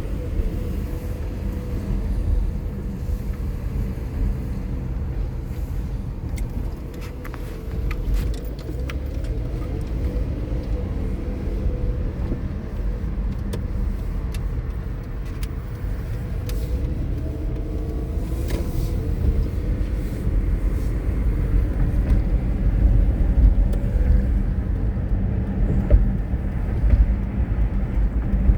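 Car driving on the road: a steady low rumble of engine and road noise with a faint steady hum, a few light clicks scattered through, growing a little louder over the second half.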